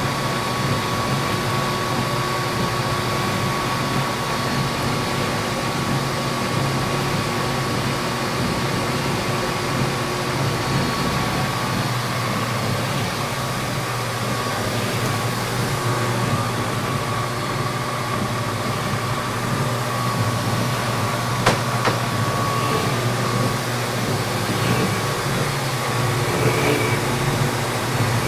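Metal lathe running steadily while a tool turns a fiberglass tube at slow speed, a constant motor and gear hum with the light sound of the cut. One sharp click about two-thirds of the way through.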